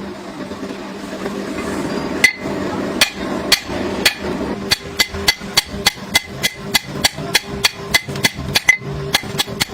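Hammer blows ringing on steel, as the bearing steel is forged into a knife: a few spaced strikes, then a steady run of about three a second. A steady hum runs underneath.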